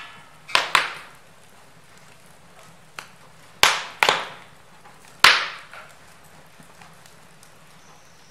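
Wood fire crackling in a fireplace: about six sharp pops and snaps from the burning logs, clustered in the first two thirds, each dying away quickly, over a faint steady low hum.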